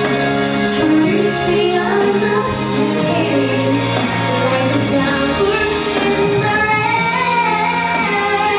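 Female voices singing a song over instrumental accompaniment with sustained bass notes.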